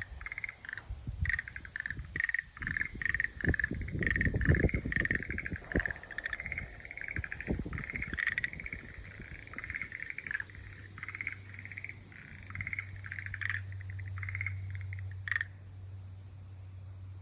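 A frog calling: rapid pulsed trills, one after another, that stop about 15 seconds in. Low thumps and rumbles come under the calls in the first half, and a steady low hum starts about 10 seconds in.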